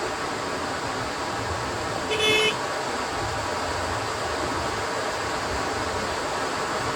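A short vehicle horn toot, lasting under half a second, about two seconds in, over a steady rushing noise.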